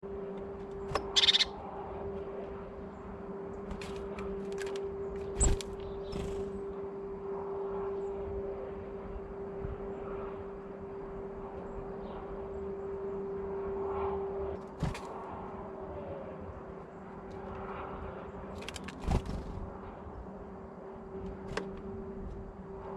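Birds at a feeder chirping now and then, with scattered sharp taps and a steady low hum underneath.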